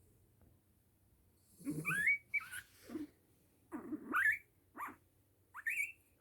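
A dog making a series of about six short, high whining sounds that bend upward in pitch, starting about a second and a half in.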